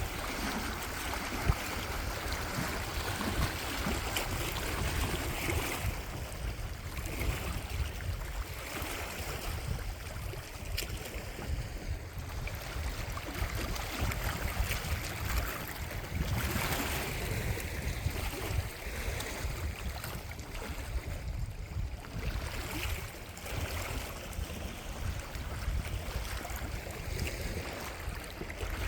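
Steady rushing water and wind, with wind rumbling on the microphone and one sharp knock about a second and a half in.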